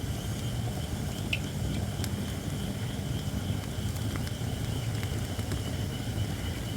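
Japanese white oak (shirakashi) firewood burning in a campfire, with scattered small crackles and a steady thin hiss from wood that is not yet fully dry. A low steady rumble runs underneath.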